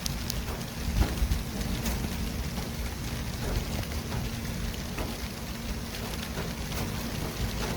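City traffic ambience: a steady hiss with a low rumble of vehicles and scattered faint clicks.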